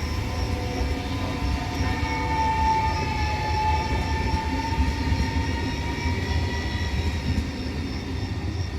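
Electric train running through the station: a low rail rumble with a motor whine that drifts slightly lower, loudest mid-way and easing near the end.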